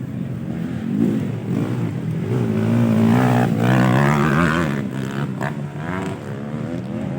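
Motocross bikes racing by with their engines revving up and down. The sound is loudest in the middle, as they pass closest, and eases off near the end.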